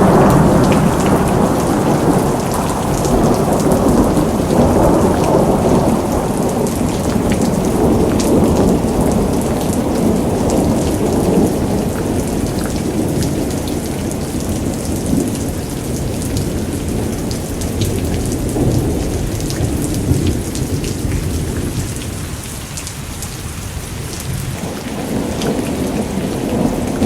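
Heavy rain falling steadily under a low rumble of thunder that swells and eases, quieting briefly about three-quarters of the way through before building again.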